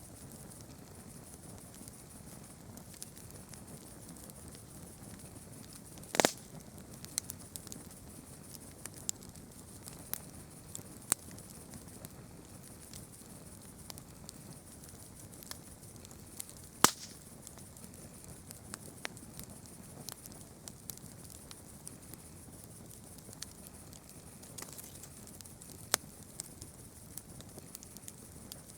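Campfire crackling: scattered small snaps and two loud pops, over a steady high hiss.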